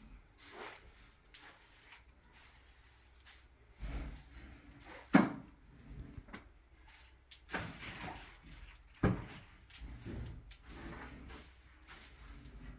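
Irregular knocks and bumps of things being handled, with two sharp knocks about five and nine seconds in.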